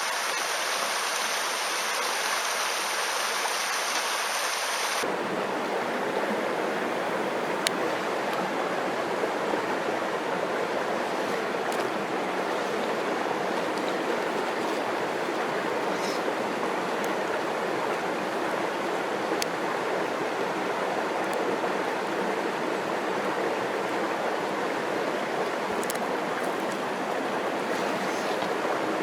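Mountain stream rushing steadily, a loud even wash of water. A few faint clicks are heard over it here and there.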